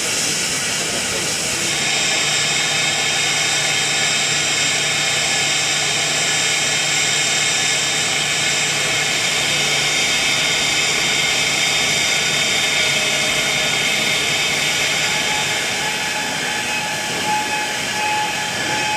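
Steam hissing steadily from the JNR C57 1 steam locomotive, a continuous rush with no exhaust beat, growing a little stronger about two seconds in.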